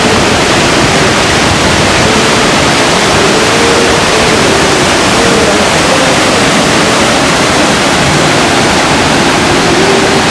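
Large waterfall rushing: a loud, steady, even rush of falling water.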